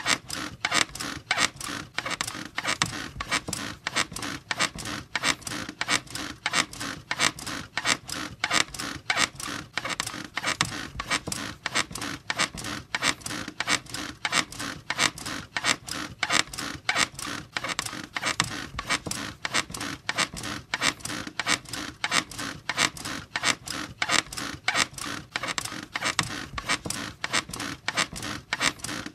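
A squeaky bed creaking over and over in a fast, steady rhythm, as if someone were bouncing on it.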